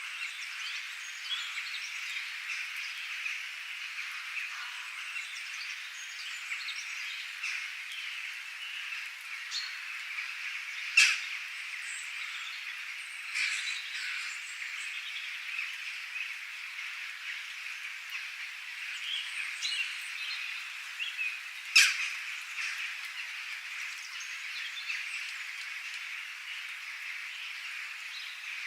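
A steady, dense chorus of small chirping and trilling animal calls, with frogs and birds calling together. Twice it is broken by a loud, sharp click that stands out above the chorus.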